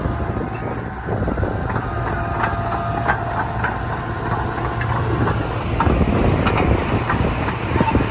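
Komatsu D31P bulldozer's diesel engine running steadily under work, with short metallic squeaks and clinks from its tracks and blade.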